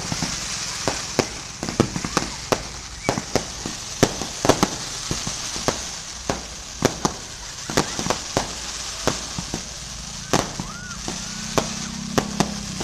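Fireworks going off in quick, irregular succession: sharp bangs and pops several times a second over a steady crackling hiss.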